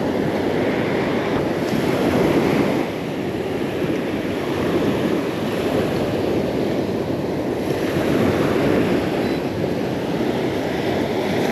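Steady rush of wind buffeting the microphone, mixed with surf washing on a beach.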